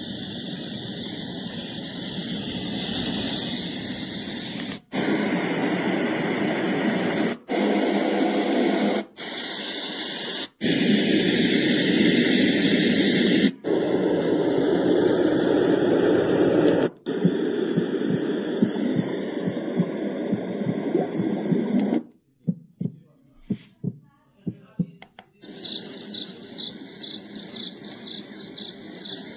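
A baby white noise machine plays one built-in soothing sound after another: several steady hissing noise tracks, each a few seconds long and cut off abruptly. About 22 seconds in comes a low, regular pulsing like a heartbeat, and near the end a noise track with chirps.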